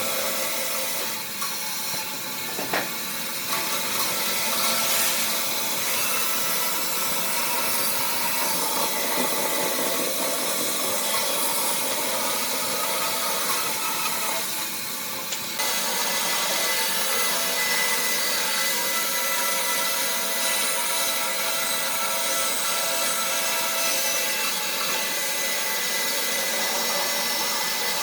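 An electric power tool working wood steadily: a motor tone under a rasping, abrasive noise, with a change in the sound about halfway through.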